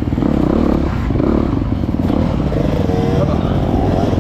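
Dirt bike engine running, its revs rising and falling.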